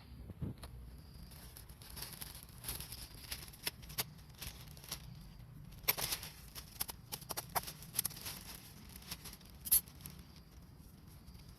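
Wood fire crackling in a homemade double-walled secondary-combustion wood stove: irregular sharp pops and snaps, busier from about halfway in, with the loudest snap near the end.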